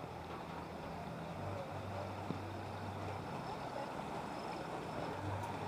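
A low, steady engine hum that drops out briefly a couple of times, over a constant wash of outdoor noise.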